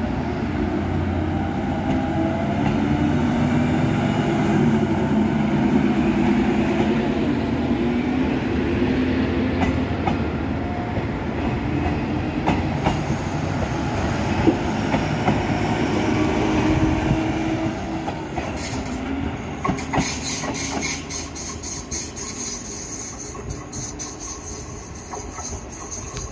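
DSB IC4 diesel multiple unit moving through the station, its diesel engines running over the rumble of wheels on the rails, loudest about a quarter of the way in. After about two thirds of the way through the sound falls away to a quieter open-air scene with a train in the distance.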